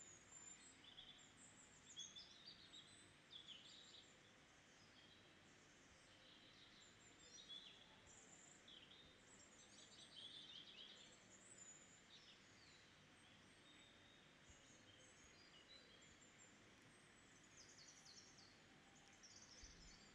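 Faint birdsong: many short, quick chirps and twitters over a low steady hiss.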